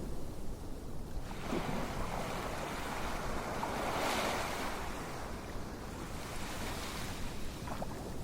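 Ocean surf: a steady low rumble of waves, with one wave washing in about a second in, swelling to a peak near the middle and fading away.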